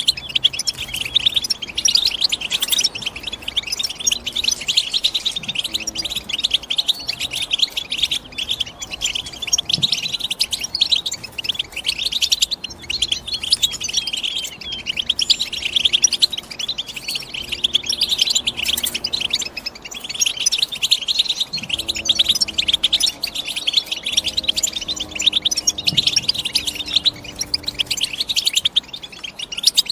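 European goldfinch singing: a fast, unbroken stream of high twittering chirps and trills.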